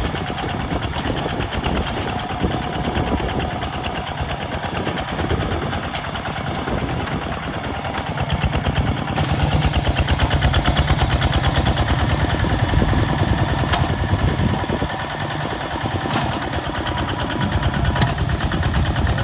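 Kubota RT single-cylinder diesel engine of a homemade farm tractor running steadily with an even rapid beat while working a field. It gets louder about halfway through.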